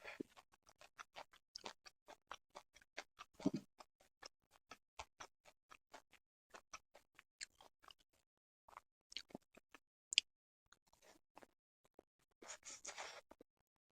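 Faint, close-miked chewing of sushi: a steady run of soft, wet mouth clicks, several a second. There is a brief louder noise about three and a half seconds in and another near the end.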